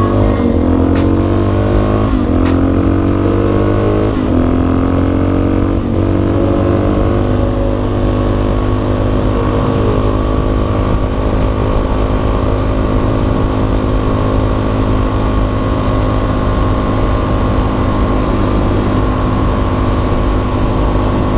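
Single-cylinder dual-sport motorcycle engine accelerating up through the gears, its pitch climbing and dropping back with each shift about every two seconds, then holding a steady cruise.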